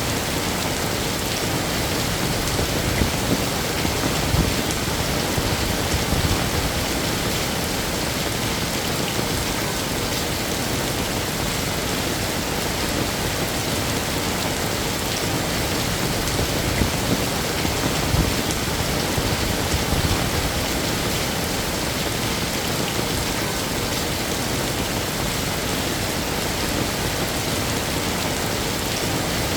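Heavy rain falling steadily as a dense, even hiss, with a few brief louder surges.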